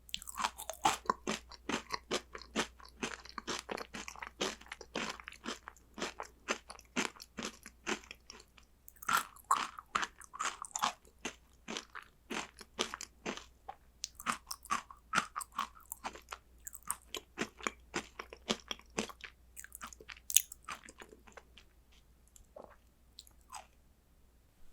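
Close-miked chewing of crunchy chocolate snacks: rapid crisp crunches in clusters, thinning out to a few scattered bites near the end.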